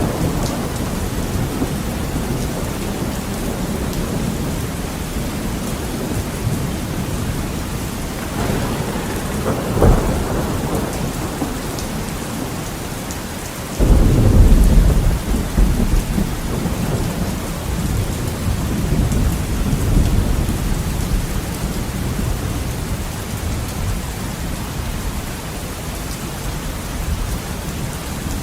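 Heavy rain pattering steadily against a window, with thunder: a sharp crack about a third of the way in, then a sudden loud low clap about halfway through that rolls on and slowly fades.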